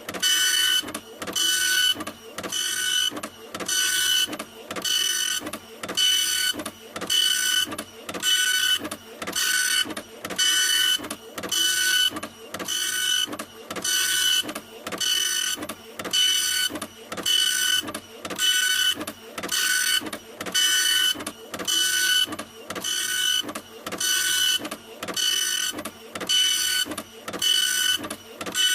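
Printer running continuously, its passes repeating evenly a little more than once a second, each a whirring stroke with a steady high whine, separated by short pauses.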